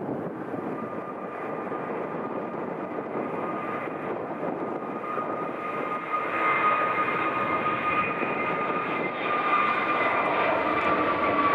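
Airliner engines running, a steady noise with a high whine that slowly falls in pitch, growing louder about halfway through.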